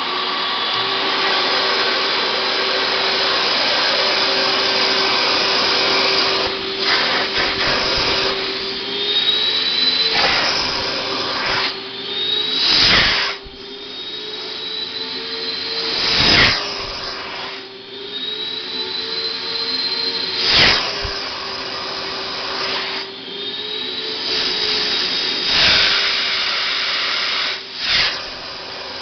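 Electric vacuum motors of a truck-mount carpet cleaning machine running steadily, pulling vacuum on the waste tank, which holds with no air leaks. From about ten seconds in, the motor tone wavers and a short loud whoosh comes every three to four seconds.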